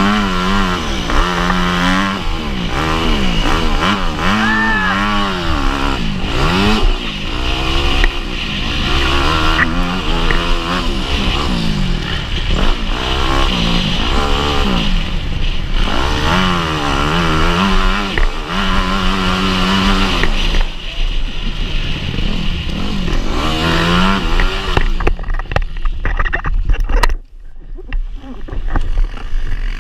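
Motocross dirt bike engine revving hard, its pitch climbing and dropping again every second or two as the rider works the throttle and gears around the track. About 25 seconds in the engine note fades behind a rushing noise, with a brief drop in level shortly after.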